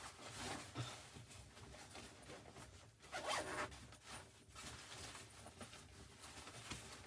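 A zipper being pulled in short rasping strokes, the loudest stroke about three seconds in.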